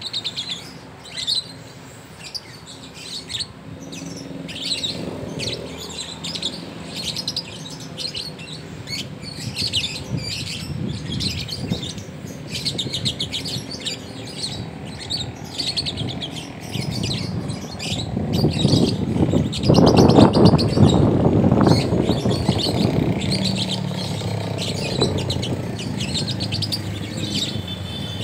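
Young lovebirds (balibu) chirping in rapid, shrill runs of short calls, the squabbling calls of a lovebird 'fight' used as a lure sound. A louder low rumbling noise swells up in the second half and then eases off under the chirps.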